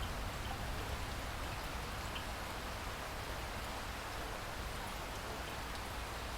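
Steady rain falling, an even hiss with a few individual drops ticking out of it.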